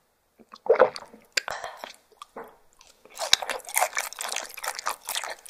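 Close-miked mouth sounds: a loud breathy exhale about a second in, right after a shot, then wet, crackly chewing of raw fish slices that becomes dense from about three seconds in.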